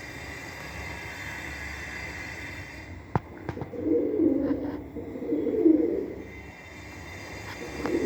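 Domestic pigeons cooing: low, rolling coos about four and five and a half seconds in, and another starting near the end. A sharp click just after three seconds.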